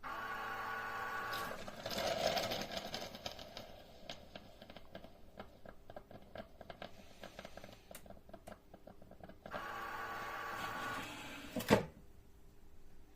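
Krups Sensation C50 bean-to-cup coffee machine running through its cycle. A steady motor hum gives way to a noisier whir, then a long run of quick ticks and rattles. The hum returns, and a sharp click near the end is the loudest sound.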